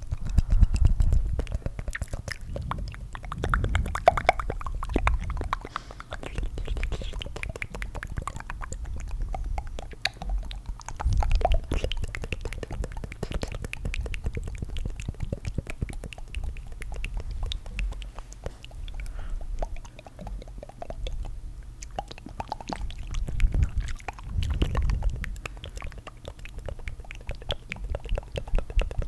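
Layered ASMR tongue fluttering recorded close to the microphone: dense wet mouth clicks and flutters running on without pause, swelling louder a few times.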